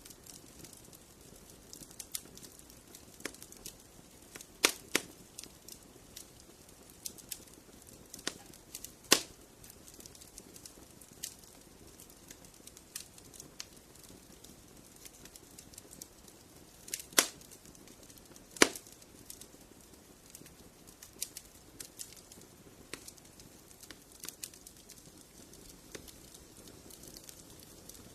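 Wood fire crackling in a fireplace: irregular small crackles throughout, with a handful of louder sharp pops, over a faint steady rush.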